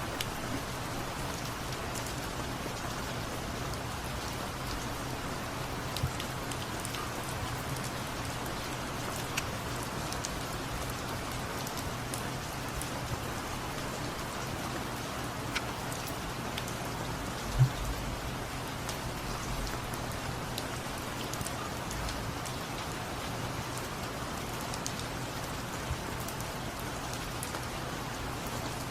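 Steady rain falling: a continuous hiss with scattered small drop ticks. A single louder knock stands out about two-thirds of the way through.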